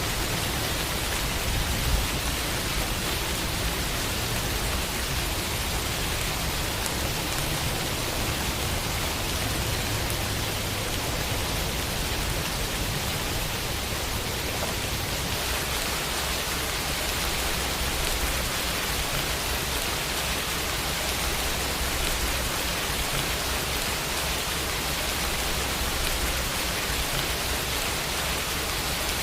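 Steady rain falling on a window, an even hiss of drops against the glass.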